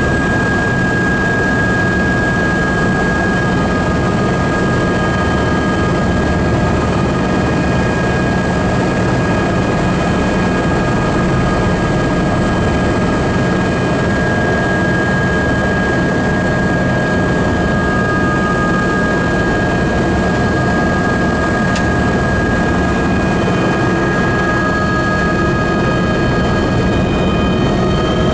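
Helicopter in flight: a steady, loud engine and rotor noise with a constant high turbine whine, the pitch rising slightly near the end.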